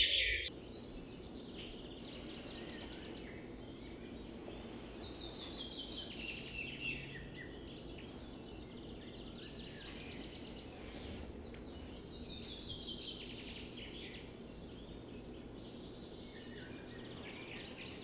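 Quiet outdoor evening ambience over a low steady hum, in which a bird sings a rapid trill that falls in pitch, repeated about every six seconds.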